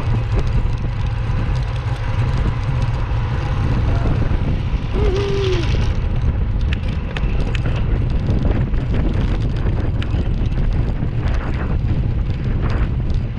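Wind buffeting the microphone of a camera riding on a moving bicycle, a steady low rumble, with road traffic around. A short high squeal about five seconds in.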